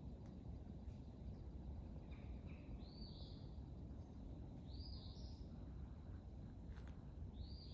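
A bird calling in woods: two short notes, then three longer calls about two seconds apart, over a faint low rumble.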